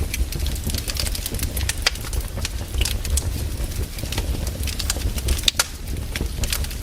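Wood fire crackling, with sharp irregular pops and snaps of burning logs over a steady low rumble.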